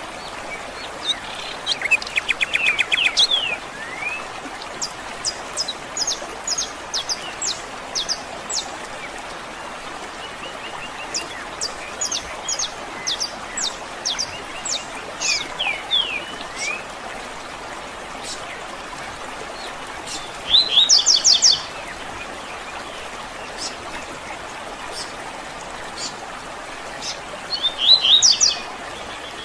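Several birds singing and chirping over a steady background hiss. Short, high-pitched calls come throughout, with louder rapid trills about two seconds in, about two-thirds of the way through and near the end.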